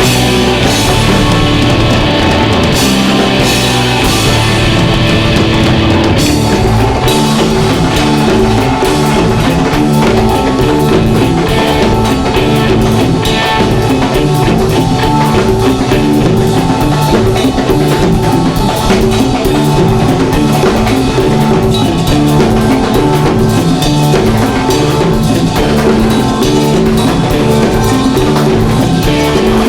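Live rock band playing with a drum kit, guitar and Hammond organ at a steady beat; the music shifts to a new section about six seconds in.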